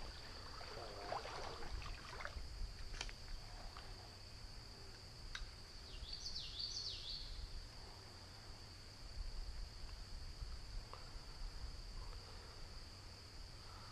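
Steady high-pitched drone of insects, with a few quick bird chirps about six to seven seconds in.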